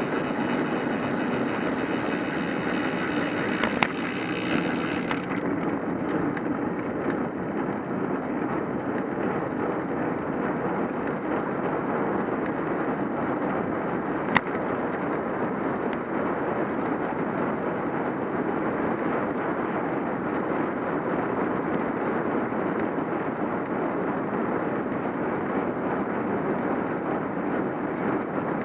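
Steady wind and road noise of a cyclocross bike being ridden, with two sharp clicks, one about four seconds in and one about fourteen seconds in.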